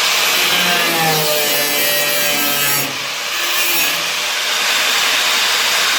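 Power tool cutting through steel car floor panel, running continuously with a wavering whine, easing off briefly about three seconds in.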